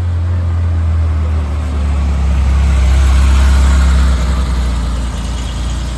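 Porsche engine running at a steady, low-pitched drone, growing louder toward the middle and easing off again.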